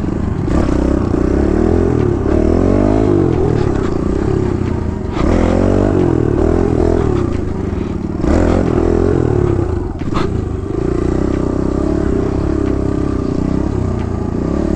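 Kawasaki KLX110 dirt bike's small four-stroke engine revving up and easing off several times as it is ridden, its pitch rising and then dropping sharply about five, eight and ten seconds in.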